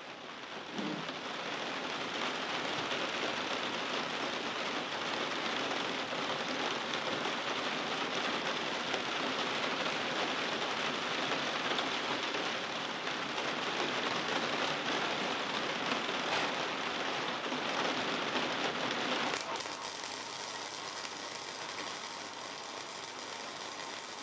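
Electric arc welding on steel rebar: a steady, dense crackle of the arc that starts about half a second in, runs for about nineteen seconds, and cuts off sharply as the weld bead is finished.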